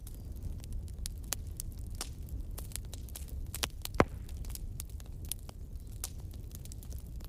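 Bonfire crackling: irregular sharp pops and snaps over a steady low rumble, with one loud pop about four seconds in.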